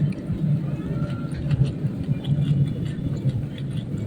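A steady low engine-like rumble, with faint scattered clicks over it.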